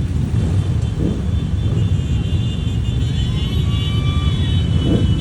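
Many motorcycle engines running together in a steady low drone, with a few brief revs rising and falling.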